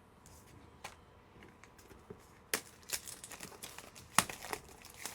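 Light handling noise from plastic trading-card holders and packaging: scattered clicks and faint crinkling, with a sharper click about four seconds in.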